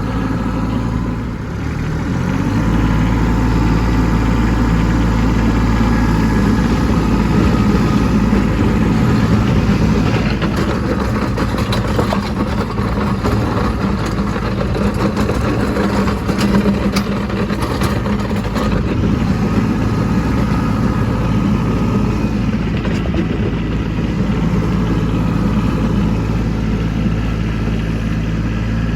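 Kubota B2601 compact tractor's three-cylinder diesel engine running steadily, picking up in level about two seconds in. Scattered light clicks and rattles run through the middle.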